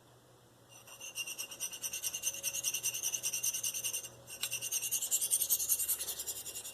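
Steel knife edge stroked freehand across a Spyderco fine ceramic sharpening stone with light pressure: a quick run of high, hissy scraping strokes starting just under a second in, a brief pause a little past halfway, then more strokes.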